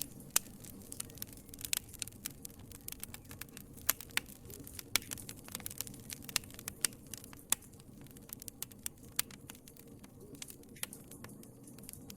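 Wood fire crackling in a fireplace: many sharp, irregular pops and snaps, some louder than others, over a low steady hiss of the flames.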